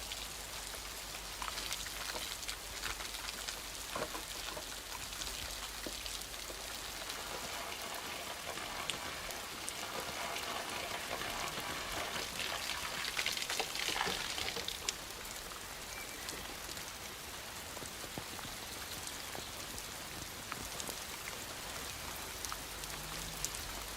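Steady rain falling and pattering on surfaces, with a few light knocks now and then.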